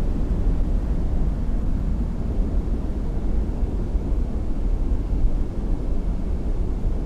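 Steady low rumble of a motorboat's outboard engine running on the water.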